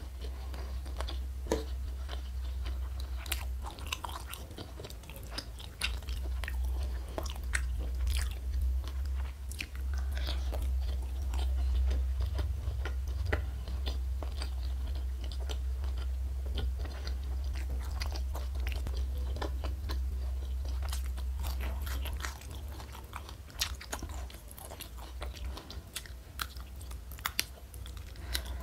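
A person chewing food close to the microphone: bites and crunchy chewing with many sharp crackles, over a steady low hum that drops away about three-quarters of the way through.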